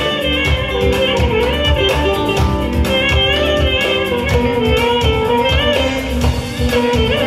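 Live band playing an instrumental break in a Turkish folk song: a plucked string instrument carries a wavering melody over bass and a steady beat.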